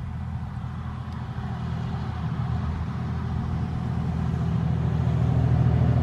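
Motor vehicle engine rumbling steadily, growing louder.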